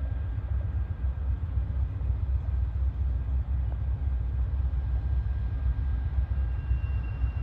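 Low steady rumble of an approaching Amtrak train, with a faint steady high tone over it.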